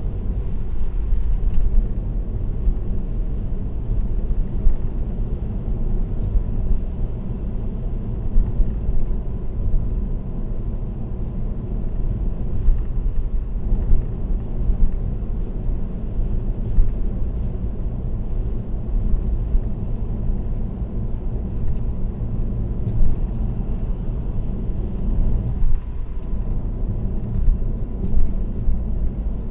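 Steady low rumble of road and tyre noise from a car cruising at expressway speed.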